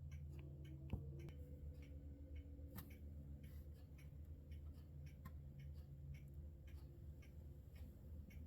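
Faint, steady low hum of the Leonardo AW109 Trekker helicopter running at near full rotor RPM just before liftoff, with light ticking, about two or three ticks a second, over it.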